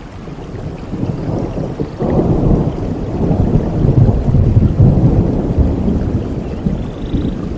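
Rolling thunder in a rainstorm over steady rain. The rumble builds, breaks into a sudden louder peal about two seconds in, then slowly eases off.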